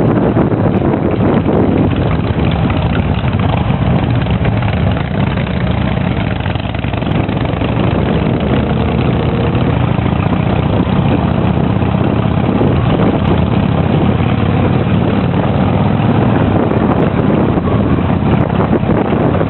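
Harley-Davidson V-twin motorcycle engine running steadily on the move, with wind rushing over the microphone.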